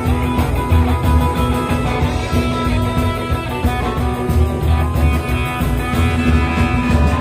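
Rock band playing an instrumental passage between sung verses: electric guitar lead over drums and bass with a steady beat.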